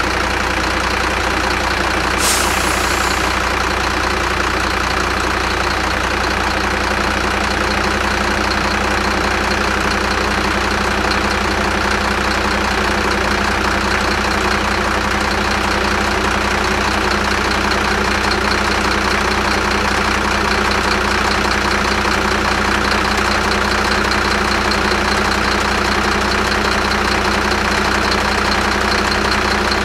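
Car engines idling steadily. There is a short sharp click about two seconds in.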